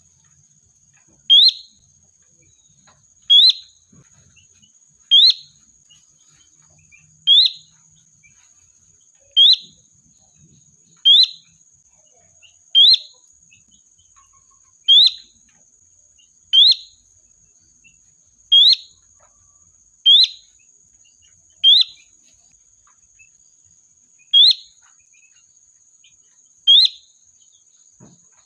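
Sooty-headed bulbul (kutilang) calling: one short, sharp rising note repeated about every two seconds, a lure call for drawing in a flock. A faint steady high whine runs underneath.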